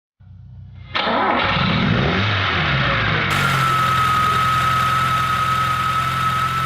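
Rebuilt Lada car engine starting: it catches about a second in, its speed wavers briefly, then it settles into a steady idle with a steady high whine over it.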